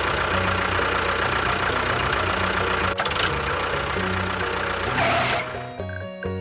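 Small motor of a homemade mini tractor running steadily, with background music underneath. The motor stops about five and a half seconds in, leaving only the music.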